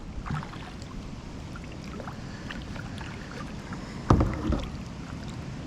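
Kayak on the water, with light water sounds, scattered small clicks and one louder knock about four seconds in.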